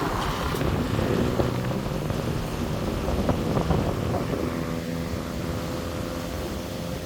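A motor vehicle's engine running on the road, its steady engine hum coming in about four seconds in, over a rumble of wind and road noise.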